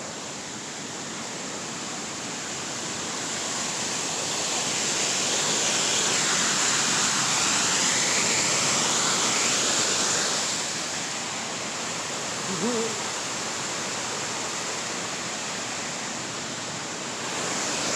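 Waterfall rushing, a steady wash of falling water that grows louder over the first few seconds and eases off about ten seconds in.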